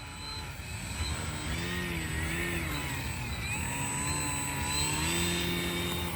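Electric motor and propeller of a Hobbyzone Carbon Cub S2 1.3 m RC plane, running on a 3S battery pack, whining during takeoff. The pitch wavers up and down with the throttle, and the sound grows louder over the first few seconds.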